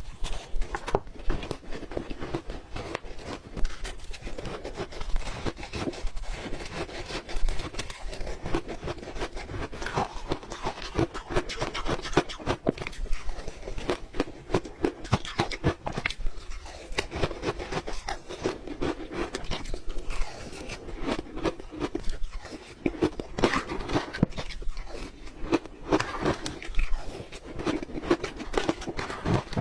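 Close-up crunching of ice being bitten and chewed: a dense, irregular stream of sharp cracks and crunches with no pause.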